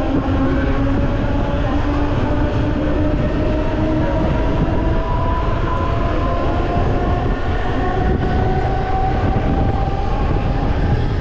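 Passenger train running, heard from an open window of the coach: a steady, loud rush and rumble of wheels on the rails, with a whine that slowly rises in pitch.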